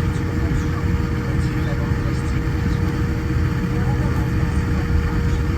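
Steady cabin noise inside a Boeing 787-9 Dreamliner: a dense low rumble with a constant hum, unchanging throughout.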